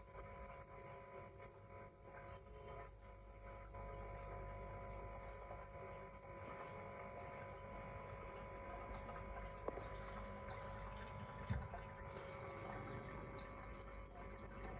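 Aquarium filter pump running: a steady hum with trickling water, and two faint taps in the middle.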